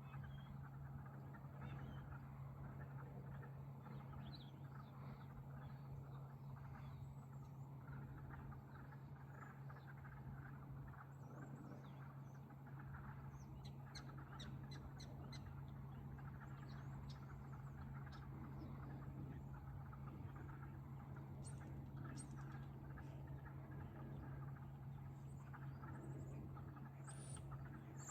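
Faint outdoor ambience of birds chirping, with a quick run of about eight high chirps around the middle and scattered calls near the end, over a steady low hum.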